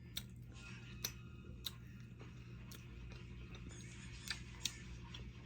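Faint eating sounds: a handful of soft, scattered mouth clicks from chewing, over a low steady hum.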